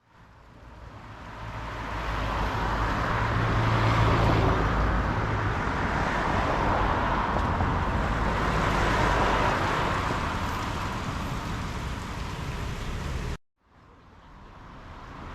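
Street traffic: road noise from passing cars with a low engine rumble, swelling twice as vehicles go by. It fades in at the start and cuts out abruptly near the end before fading back in.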